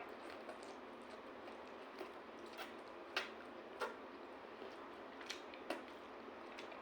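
Faint, scattered light clicks of cutlery touching a plate, about six over several seconds, over a low steady hiss.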